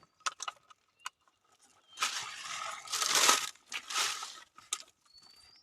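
Crinkling, rustling handling noise lasting about two seconds in the middle, loudest just past its midpoint, with a few sharp clicks before and after it.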